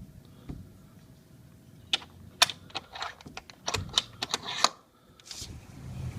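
A run of irregular sharp clicks and rattles lasting about three seconds, a dozen or so quick strokes.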